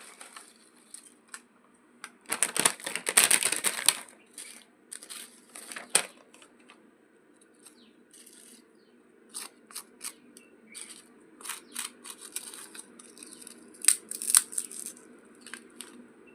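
A crinkly plastic snack packet being handled and torn open: irregular crinkling and crackling with sharp clicks, densest from about two to four seconds in and again near fourteen seconds.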